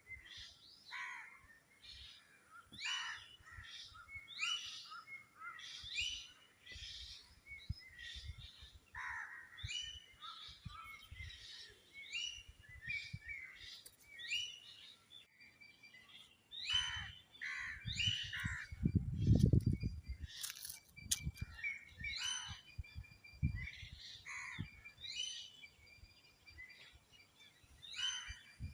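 Birds calling and chirping, many short calls repeating throughout, with a brief low rumble about two-thirds of the way through.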